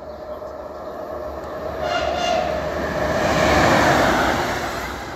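Double-deck regional passenger train passing along the platform, the rush of wheels on rails growing to a peak about three and a half seconds in and then easing off, with a brief whine about two seconds in.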